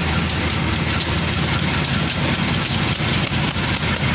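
Diesel train passing close: a steady low engine drone under rapid, irregular clacking of wheels over the rail joints.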